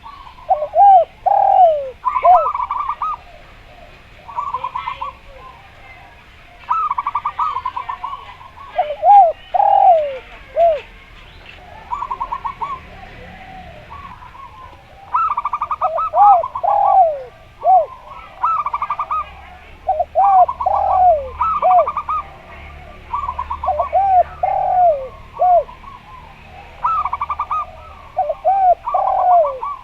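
Zebra dove (perkutut) and derkuku dove calling in repeated bouts. Fast rattling trills alternate with louder, arched cooing notes, a new phrase every couple of seconds.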